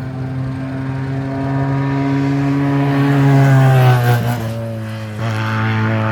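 Historic racing car's engine pulling hard at full throttle, its pitch climbing steadily and getting louder, then dropping quickly about four seconds in at a gear change before it pulls on again.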